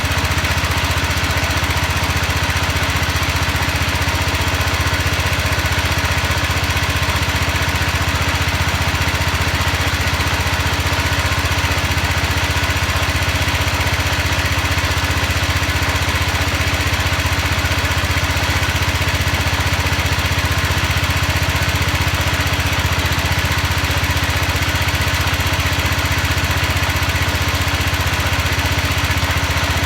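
Small garden tractor engine running steadily after a cold start, at an even speed with no revving.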